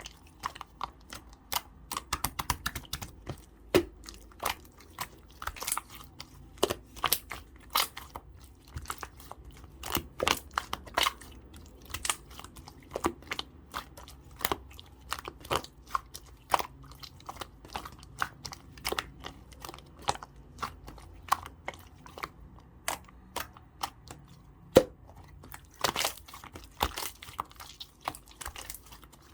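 Clear slime being squeezed and kneaded by hand, giving dense, irregular clicks and pops from air bubbles caught in it.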